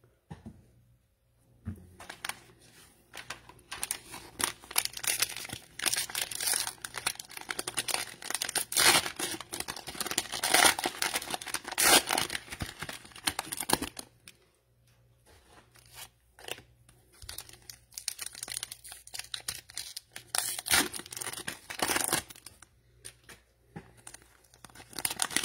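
Cellophane wrappers of NBA Optic cello card packs being torn open and crinkled by hand, in two long spells of crackling with a short lull about halfway through.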